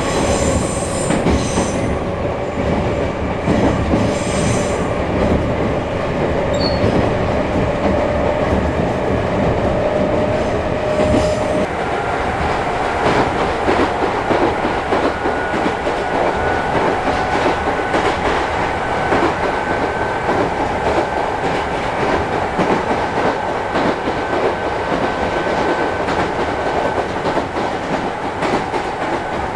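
A Chichibu Railway 5000 series resistance-controlled electric train heard from on board as it runs along, wheels clattering over rail joints under a steady whine. About twelve seconds in the whine jumps higher, and from there on the train runs over short-length rails with frequent joint clicks.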